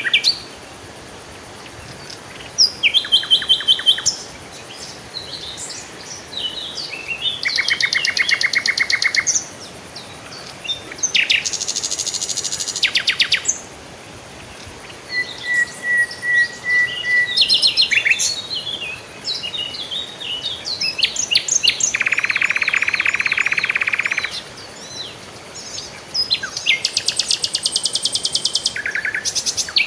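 Several songbirds singing in turn, with chirps, whistled phrases and fast rattling trills. A dense buzzing trill lasts about two seconds midway through.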